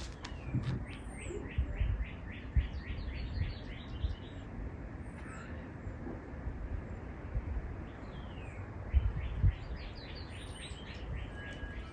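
A songbird singing the same song three times, each a high arched note followed by a fast run of short repeated notes. Low dull thumps and rumble sit underneath, a few of them standing out.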